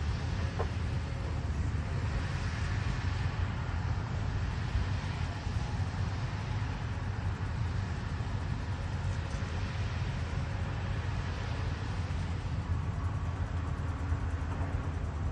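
Caterpillar 320D hydraulic excavator's diesel engine running steadily with a deep, even rumble.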